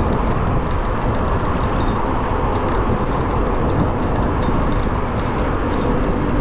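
Steady rushing of wind and road noise from riding an electric bicycle at speed in city traffic.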